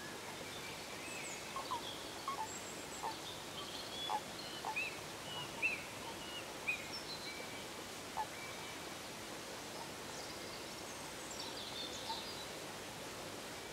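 Scattered short bird chirps and calls over a steady outdoor hiss, busiest in the first half, with a few more near the end.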